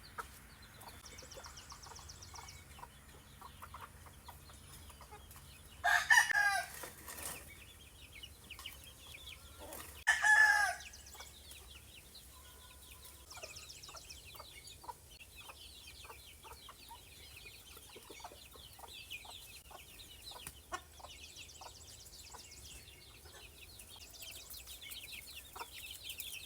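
Gamefowl roosters crowing twice, about six and ten seconds in, with low clucking and faint scattered ticks between the crows.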